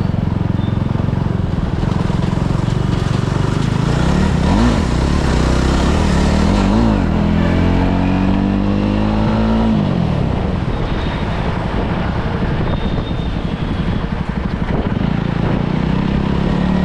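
Motorcycle engine running at low speed, with two quick throttle blips about four and a half and seven seconds in. Then a rising rev as it pulls for about three seconds before dropping back near the ten-second mark.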